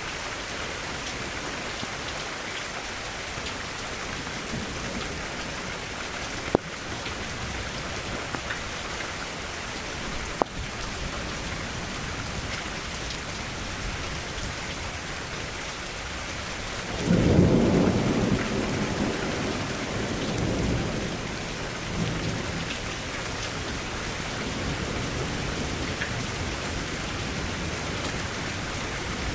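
Steady rain falling, with a couple of sharp drop ticks. About two-thirds of the way through, a loud, low roll of thunder breaks in and dies away over several seconds.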